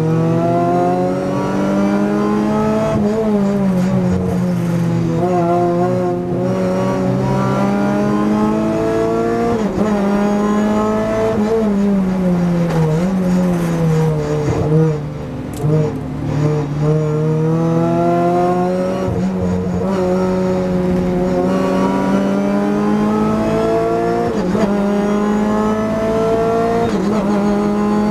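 Renault Clio Cup race car's engine heard from inside the cockpit at racing speed: revs climbing and dropping back at each upshift, falling off for a corner about halfway through, then pulling up through the gears again.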